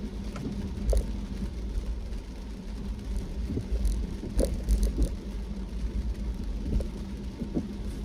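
Car driving on a rainy road: a steady low rumble of engine and tyres with a steady hum, and a few short sharp taps scattered through it.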